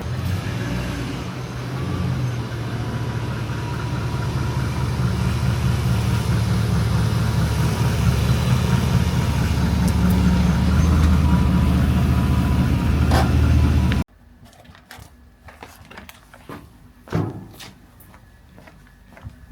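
BMW E30's 4-litre V8 running at a steady speed, slowly growing louder, then cutting off suddenly about two-thirds of the way in. After the cut come quiet scattered clicks and knocks.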